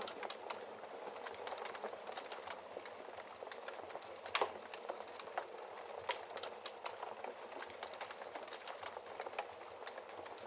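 Wood fire burning in a fireplace, crackling steadily with frequent small pops and one louder pop about four seconds in.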